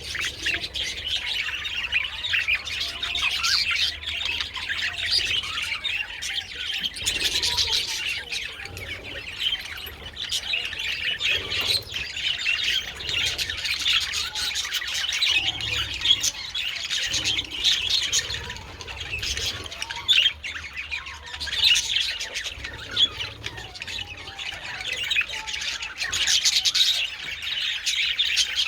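A flock of budgerigars chattering, many birds chirping and calling over one another without a break.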